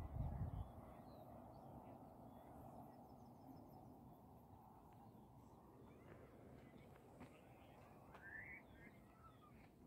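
Quiet open-air ambience: a faint, steady low hush with a few faint bird chirps in the second half, the clearest a short rising call.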